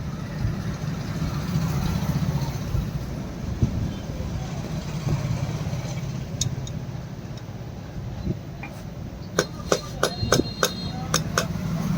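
A steady low rumble, then about three seconds before the end a quick run of some ten sharp metallic strikes, several of them ringing briefly, as when steel is struck with a hammer.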